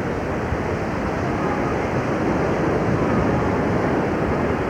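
Steady rush of ocean surf washing onto a beach.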